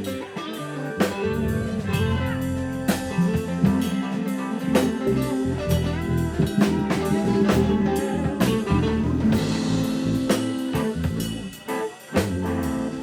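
Live band playing a jam, with guitar and drum kit, the drums hitting steadily; the music dips briefly near the end.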